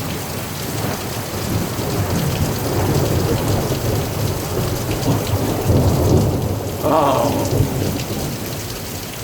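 Long rolling thunder over heavy, steady rain: a deep rumble that builds about a second in, swells through the middle and fades near the end.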